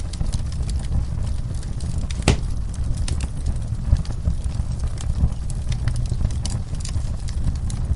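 Wood fire burning in a fireplace: a steady low rumble of the flames with scattered crackles and pops, one sharper pop a little over two seconds in.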